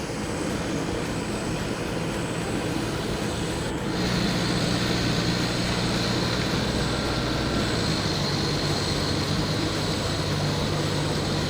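Two-cylinder diesel engine of a Mahindra Jivo 365 DI 4WD mini tractor running steadily under load as it pulls a rotavator through paddy mud. The sound gets a little louder about four seconds in.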